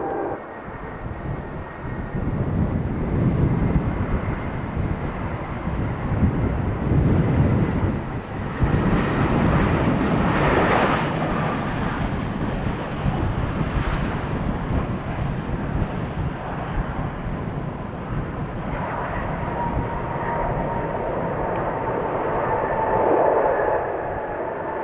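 Jet airliner engines rumbling as the aircraft passes, swelling and easing, with a steady whine joining in about three-quarters of the way through.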